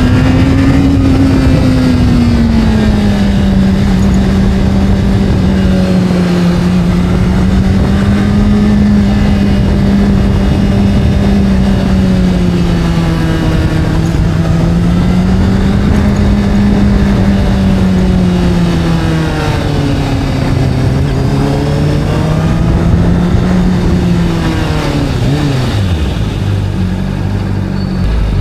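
Motorcycle engine running at a high steady pitch that rises and falls gently with the throttle. About 25 seconds in it drops sharply and settles to a low, steady idle.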